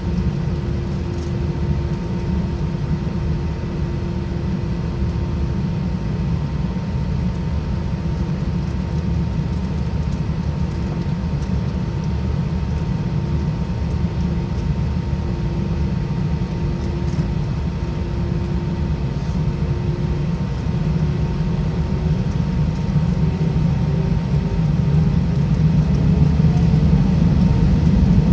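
Airbus A320 cabin noise from seat level, with its IAE V2500 engines running: a steady deep rumble with a humming tone. Over the last several seconds the tone rises in pitch and the noise grows louder.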